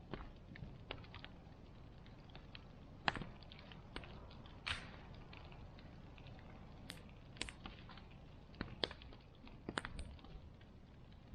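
Bonfire crackling: irregular sharp pops and snaps, a few of them louder, over a low steady rumble of the burning wood.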